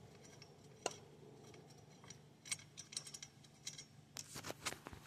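Faint, irregular light metallic clicks and ticks from tools and metal parts being handled while the wiper motor is unfastened from its frame. There is one sharp click about a second in, and the clicks cluster more thickly in the second half.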